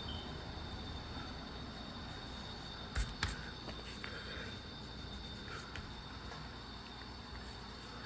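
Pencil scratching on paper in short strokes during sketching, with two sharp taps about three seconds in, over a steady high-pitched whine.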